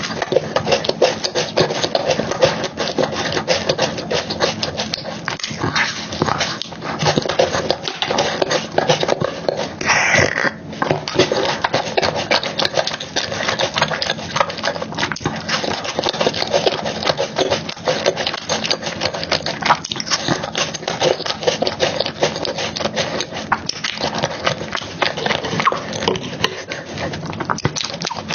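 Wet chewing and mouth smacking while eating soft chocolate cake with cream, a continuous stream of small sticky clicks.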